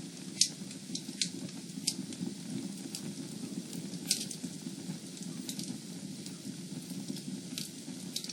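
Wood fire burning in a fireplace: a steady low rush with sharp crackles and pops every second or so, the sharpest about half a second in and another around four seconds in.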